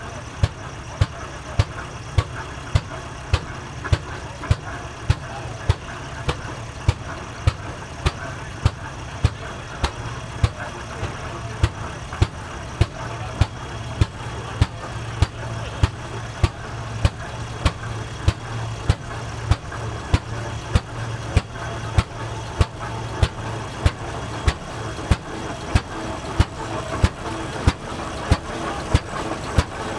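Antique tractor engines running at a slow idle: a steady low drone with sharp, evenly spaced exhaust pops, somewhat more than one a second.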